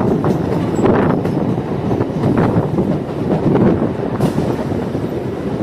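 MEMU electric train running along the track: a steady rumble of wheels on rails, with a few irregular clicks from the rail joints.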